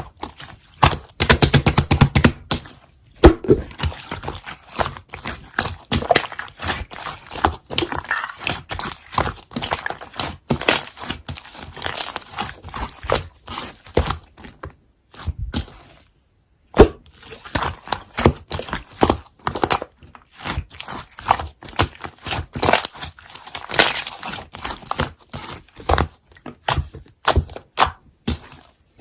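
Slime being squeezed, pressed and stretched by hand, giving dense runs of crackling and popping clicks. There is a short break a little past halfway.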